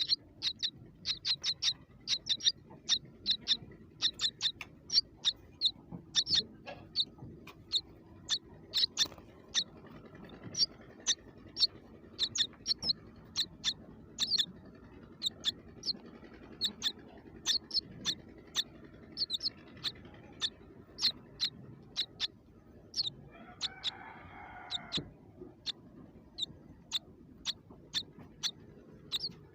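A small bird chirping over and over, short high-pitched chirps coming two or three times a second. About three-quarters of the way through, a different, lower sound lasting about two seconds cuts in.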